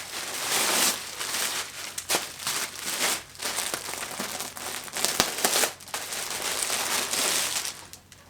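A parcel's packaging being handled and opened, a run of irregular crinkling and rustling with some tearing, as a garment is pulled out.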